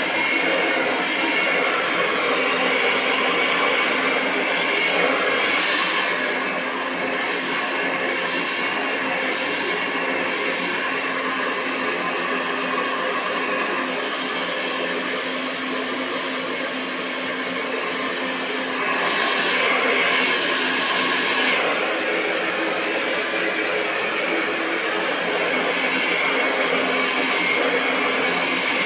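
Hair dryer running continuously: a steady rush of air over a motor hum and a high whine. It dips a little quieter and duller for several seconds in the middle, then comes back up.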